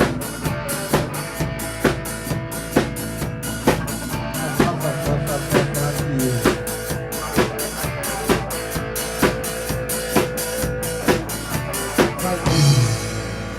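Music with a drum kit playing a steady beat over a held tone. About a second before the end the drum strikes stop and a low swell with a hissing wash takes over.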